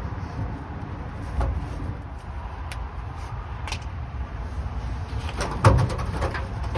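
Scattered clicks and knocks of hand tools and metal fittings as a stuck heater hose is worked at, with a louder clatter about five and a half seconds in, over a low rumble.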